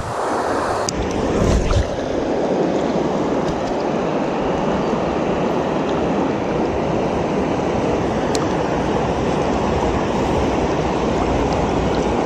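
Steady rushing of a stream's flowing water, with a few faint ticks near the start.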